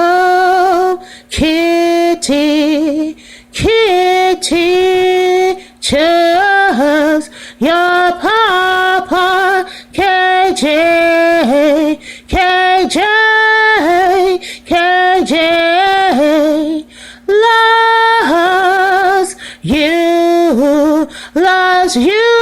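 A woman singing a cappella: a run of held notes with a wide vibrato, separated by short breaks.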